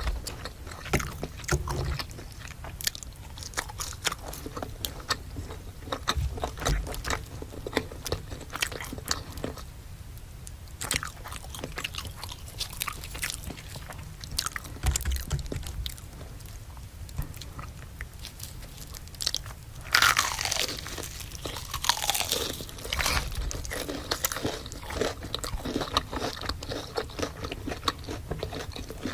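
Close-miked eating sounds: crisp bites and crunchy chewing of crispy fried chicken, with many small crackles. About two-thirds of the way through comes a louder sliding, wet sound.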